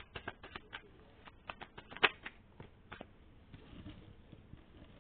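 Tarot cards being shuffled by hand: a quick run of crisp card snaps that slows after about a second into scattered single snaps, the loudest about two seconds in, followed by faint handling sounds.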